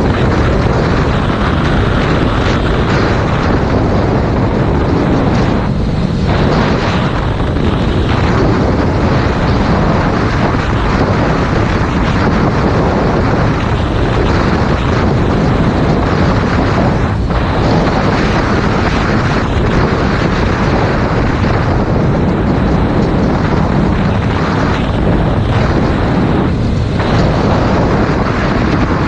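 Heavy wind buffeting on a GoPro Hero 5 Black's microphone on a moving motorcycle: a loud, steady rush with a few brief dips.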